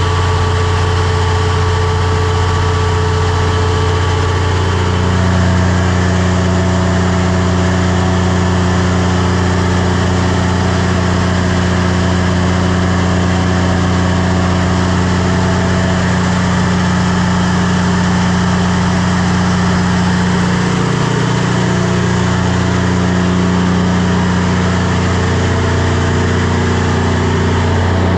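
Cummins 400 kW diesel generator set running at steady speed during a load bank test, a constant low drone. Its tone shifts slightly about five seconds in.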